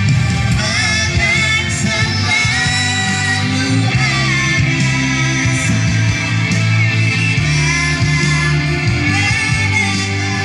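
A nasyid song sung live over band accompaniment with guitar, the voice carrying a gliding melody above a steady low backing.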